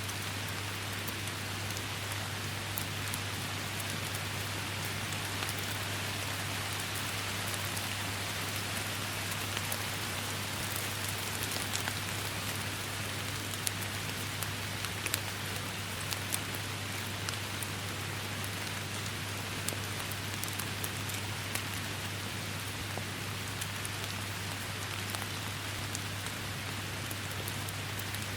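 Steady rain falling: a dense, even hiss with many small, sharp drop hits scattered through it, over a constant low hum.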